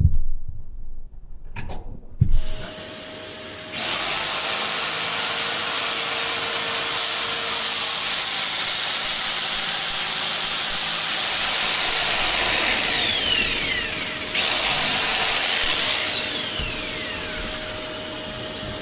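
Electric power tool running continuously, starting up a few seconds in, with a brief dip and surge about two-thirds of the way through and falling whines as it winds down.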